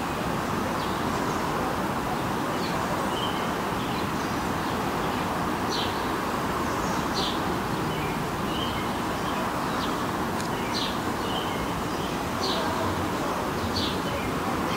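Small birds chirping, short high calls scattered every second or so, over a steady background hum of open-air noise.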